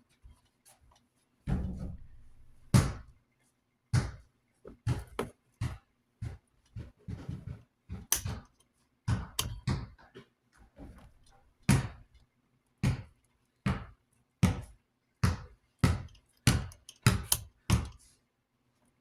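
Irregular knocks, taps and clatters of a desk fan's metal motor and parts being handled on a work surface, a sharp knock every half second or so through most of it, with a heavier thump about two seconds in.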